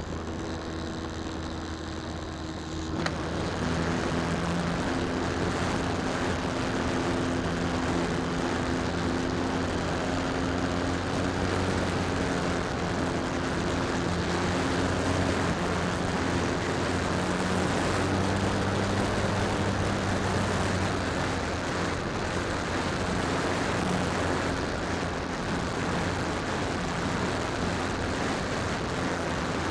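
Electric motor and propeller of an RC P-51 Mustang model airplane, heard through a keychain camera mounted under its belly: a steady motor whine over a rush of wind. It grows louder about three seconds in, then holds with small shifts in pitch.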